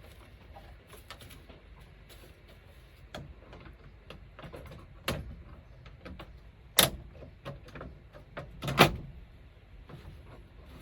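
Scattered knocks and clatter of handling hard objects, with three sharper, louder knocks from the middle towards the end.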